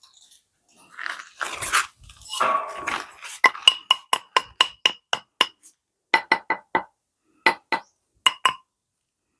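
Rustling and scraping, then a run of sharp ringing metallic taps, about four a second, breaking into short groups of two to four taps near the end.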